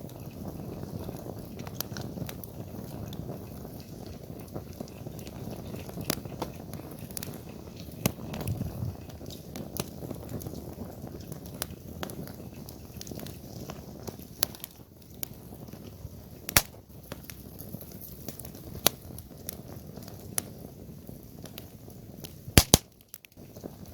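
Wood campfire burning: a steady low rush of flames with scattered sharp crackles and pops. The loudest is a close pair of pops near the end, with a brief dip in the sound just after.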